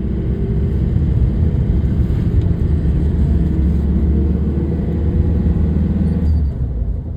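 Motor vehicle engine running steadily, a loud low drone that eases off slightly near the end.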